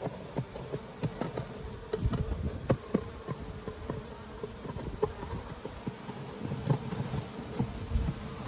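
Honeybees from an open Layens hive buzzing with a steady hum, over irregular clicks and scrapes of a metal hive tool working the wooden hive body to scrape off propolis.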